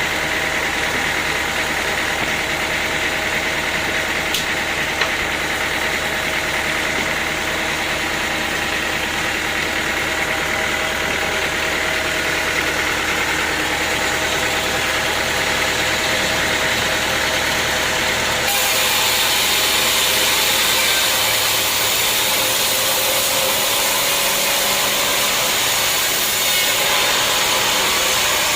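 Sawmill machinery running steadily with a mechanical hum. About two-thirds of the way in, the sound changes abruptly to a louder, hissier noise.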